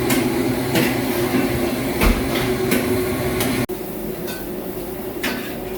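Kitchen cooking sounds: irregular knocks of a utensil against a pan or board, about six in all, over a steady hum.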